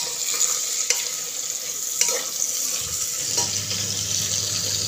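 Soya chunks and green peas sizzling in hot ghee in a pressure cooker, stirred with a steel ladle that clinks against the pot a few times.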